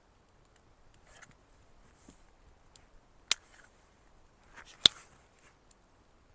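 Two sharp snaps or clicks, about a second and a half apart with the second one louder, amid faint rustling handling noise.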